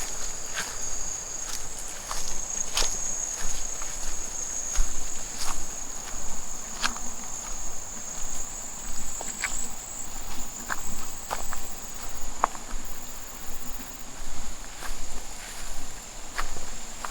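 Insects singing in a steady high-pitched drone. Over it come scattered short crunches and clicks, about one a second, as cattle graze, tearing grass and stepping close by.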